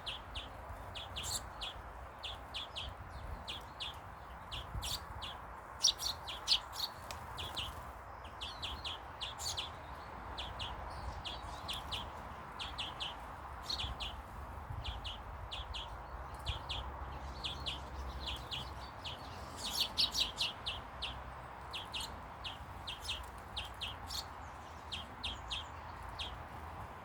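Small garden birds chirping continuously in short, high notes, a few a second, over a steady background hiss.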